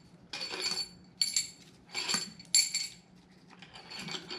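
Metal tools and engine parts clinking and ringing during hand disassembly of an engine: four sharp metallic clinks about half a second apart, then fainter clinks near the end.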